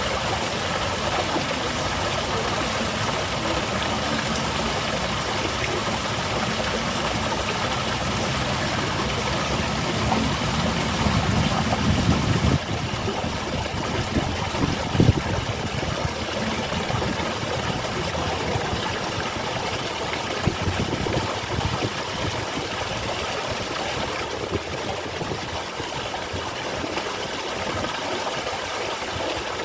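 Water from a small garden waterfall splashing and rushing steadily. About ten seconds in, a low rumble builds and cuts off sharply a couple of seconds later, and a brief knock comes near fifteen seconds.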